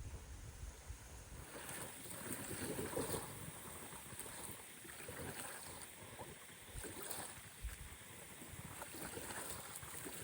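Wind-whipped lake water splashing and lapping irregularly against the shore, with wind buffeting the microphone in a low rumble during the first second or so.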